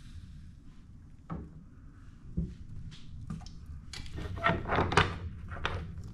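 A few separate knocks, then a quicker run of clatters about four seconds in: hard objects being handled and set down.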